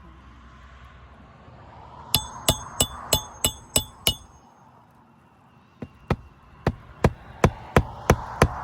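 Hammer driving roofing nails through asphalt shingles: a run of about seven quick blows with a metallic ring, a short pause, then about eight more, roughly three a second. The nails are hard to drive home properly.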